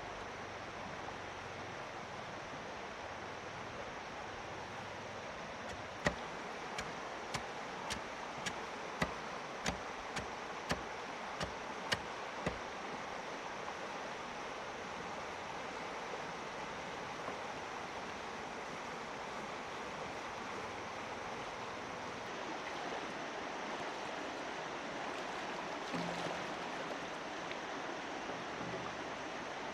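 Steady rush of flowing river water. About six seconds in, a run of about a dozen sharp knocks or taps, roughly two a second, lasts for some six seconds.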